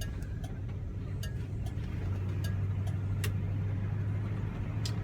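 Interior sound of a 1971 Oldsmobile Cutlass S under way: a steady low engine and road drone that grows louder about two seconds in, with a few light clicks and ticks in the cabin.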